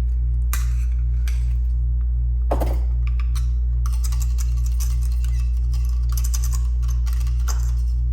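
Screwdriver bit being rubbed against a magnet to magnetize it: a few separate clicks, then a rapid run of small scraping clicks from about four seconds in until near the end. A steady low electrical hum runs underneath.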